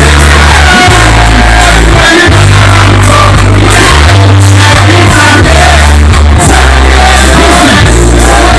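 Loud live music performance: a deep bass line stepping between held notes under a lead voice singing, with some shouts from the crowd.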